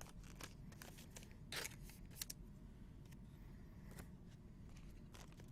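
Baseball cards being handled and flipped through by hand: a few brief, sharp card scrapes and flicks over a low steady background.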